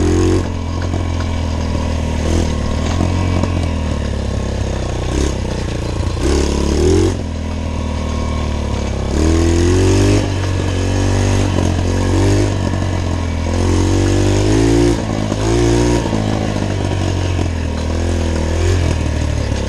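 Small pit bike engine running under way, revving up and dropping back again and again as the throttle is opened and closed. The engine doesn't seem to want to rev out, which the rider puts down to the top end needing adjustment.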